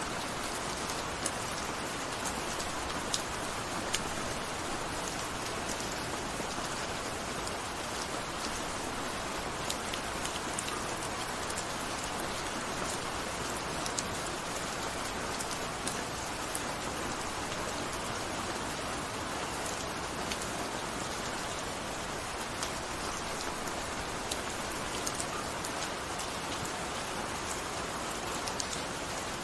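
Steady gentle rain falling, a constant patter with many distinct drops ticking through it.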